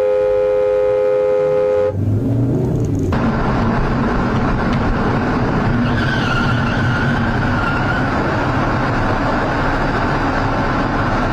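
A car horn held in a steady two-note blare that cuts off abruptly about two seconds in. Then a car's engine and tyres run with steady road noise, and a faint wavering squeal comes in around the middle.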